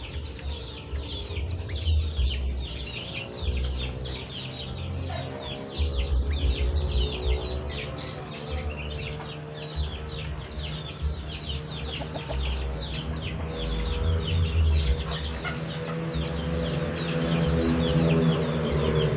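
Sooty-headed bulbul (kutilang) calling loudly, a rapid, continuous run of short, sharp down-slurred notes, with a low rumble and steady hum underneath.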